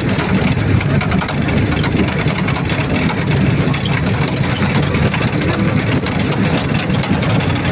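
Old Nissan Patrol's engine running steadily as the vehicle is driven.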